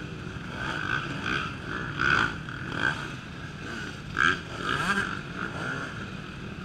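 Off-road racing motorcycles revving up and backing off repeatedly, with sharper blasts of throttle about two, three and four seconds in, typical of riders working their way over a log obstacle.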